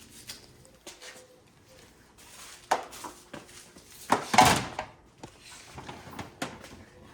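Handling noises of things being picked up and set down: a few scattered knocks and clicks, a sharp knock nearly three seconds in, and the loudest, a short scraping clatter a little after four seconds.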